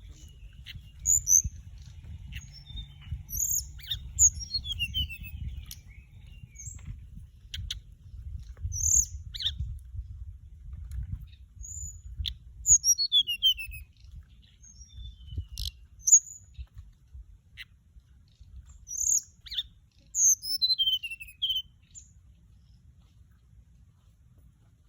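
Orange-breasted, white-bellied flycatcher singing: high, thin chirps and short phrases that slide downward, repeated every few seconds, over a low rumble that fades near the end.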